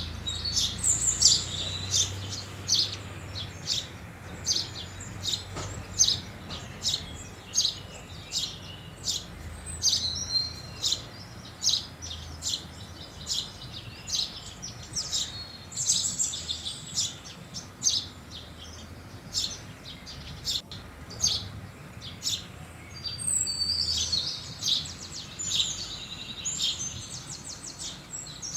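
A group of house sparrows chirping, many short chirps overlapping, with a few quick chattering runs.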